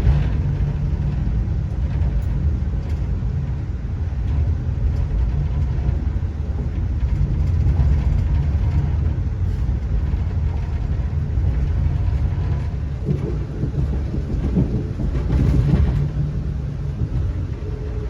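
Passenger train running along the track, heard from inside the carriage: a steady low rumble, with a louder, rougher stretch a few seconds before the end.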